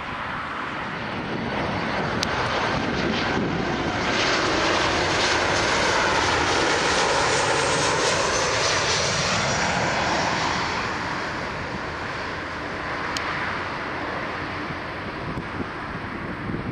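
Jet airliner passing close overhead: its engine noise swells to a peak in the middle and then eases off, with a sweeping, phasing whoosh as it goes by.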